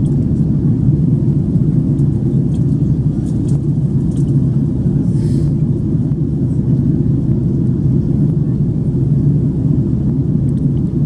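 Steady cabin rumble inside an Airbus A330-300 airliner in flight, the engine and airflow noise heard from a passenger seat, with a brief hiss about five seconds in.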